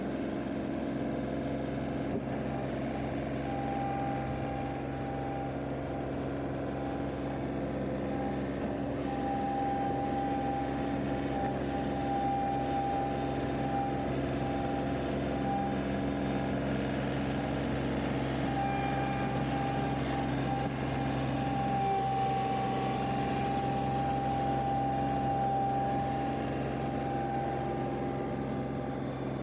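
John Deere 2038R compact tractor's three-cylinder diesel engine running steadily under work, with a high thin whine that comes and goes over it, while the loader digs into heavy clay.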